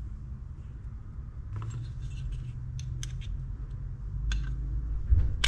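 Small metal fishing-reel parts clicking and scraping as they are handled and greased, with scattered light clicks and one sharper click near the end, over a low steady hum.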